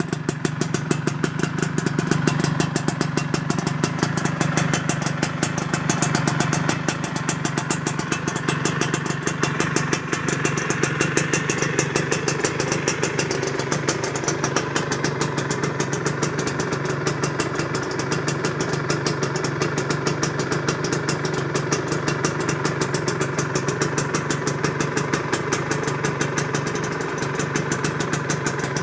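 Yamaha F1ZR single-cylinder two-stroke engine idling steadily through an aftermarket AHM Malaysia exhaust.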